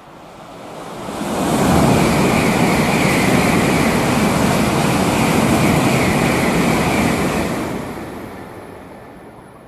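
Tokaido Shinkansen bullet train passing through a station at high speed without stopping: a rushing roar that swells over about two seconds, holds loud for about five seconds with a steady high hiss in it, then fades away.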